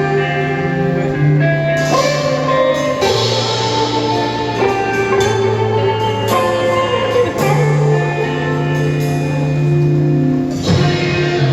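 A rock band playing an instrumental passage: guitar chords over held bass notes that change every second or two, with a drum kit.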